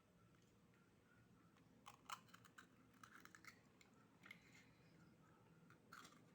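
Faint, irregular clicks and clinks of oyster shells being handled while eating, starting about two seconds in.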